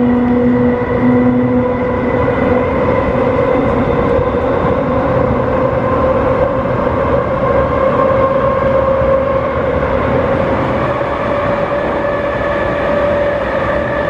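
MTR East Rail MLR electric multiple unit's nose-suspended traction motors whining under power as the train gathers speed, several tones climbing slowly in pitch over a steady rumble of running gear on the rails. A lower hum fades out about a second and a half in.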